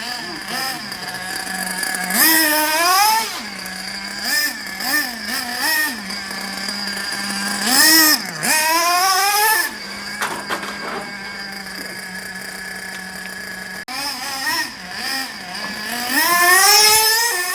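Traxxas Slayer's Novarossi 2.5 supercharged nitro engine running, settling to a steady idle between throttle bursts. It revs up and back down several times, with three long high-pitched revs about two seconds in, about eight seconds in and near the end.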